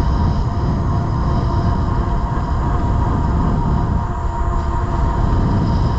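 Steady wind noise on the microphone of a rider moving along on an e-bike, with a faint steady whine running through it.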